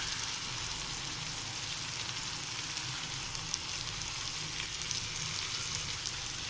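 Julienned carrots and green capsicum frying in hot oil in a wok: a steady hiss with scattered small crackles.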